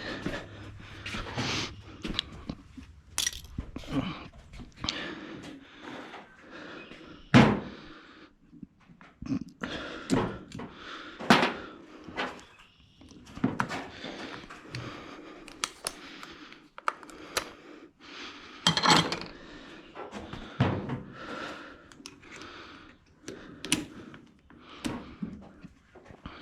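Irregular metallic clanks, knocks and ratchety clicks of hand tools and parts being handled while a twin-turbo setup is unbolted, with a sharp knock about seven seconds in.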